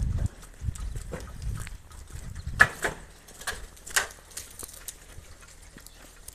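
Walking footsteps, about five short crunching steps roughly half a second apart, over low rumbling thumps of wind buffeting the microphone.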